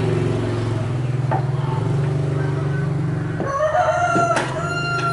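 A rooster crowing: one long call starting about three and a half seconds in. Under it runs a steady low mechanical hum, with a few separate knocks.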